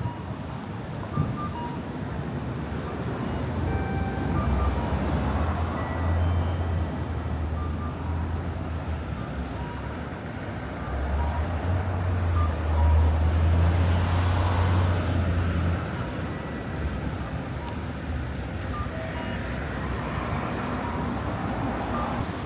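City street traffic: vehicles passing, with a low engine rumble that swells twice, once a few seconds in and again near the middle.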